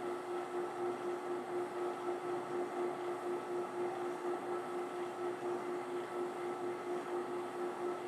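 Benchtop drill press spinning a sanding drum, smoothing the inside of a Forstner-bit hole in wood, with shop dust extraction running. A steady hum with one clear tone, wavering evenly a few times a second.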